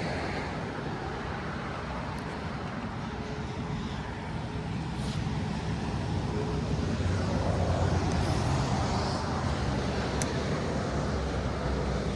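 Steady outdoor rumble of distant road traffic, swelling louder for a few seconds about halfway through and then easing off.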